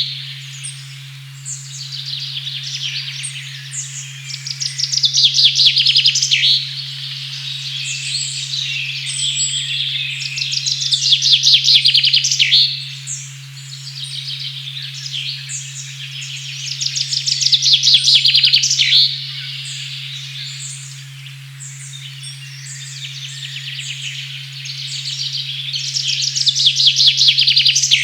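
A steady, low 136.1 Hz sine tone under songbirds singing. Several birds trill fast and chirp, growing louder in swells about every six seconds.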